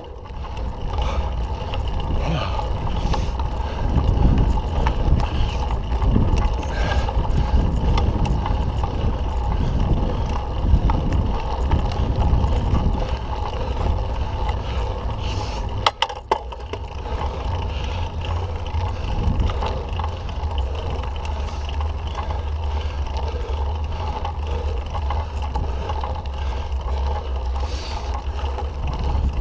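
Mountain bike being ridden on a dirt trail: steady tyre and drivetrain noise with wind rumbling on the microphone, and a sharp click about halfway through.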